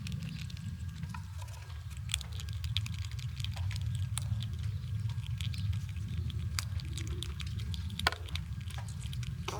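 Squirrels gnawing and cracking nut shells: quick, irregular crunching clicks, with a sharper crack about eight seconds in, over a steady low rumble.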